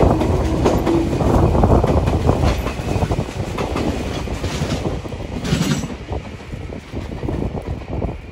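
Meitetsu 6800-series electric train running past close by, its wheels clattering over rail joints and points. The rumble eases off over the last few seconds.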